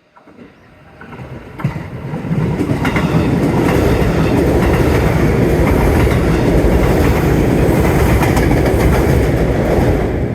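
Train passing close by at a level crossing, loud and steady, with wheels clacking over the rail joints. It builds up over the first few seconds and is just beginning to fade at the end.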